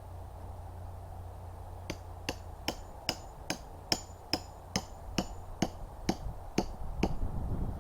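Steady hammering: about a dozen even strikes, a little over two a second, each with a faint ringing tone, starting about two seconds in.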